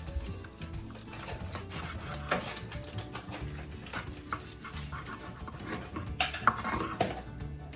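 Background music under a few sharp knocks and clicks of kitchen utensils as the cooked chicken doner kebab is sliced, the clearest about two seconds in and a cluster near the end.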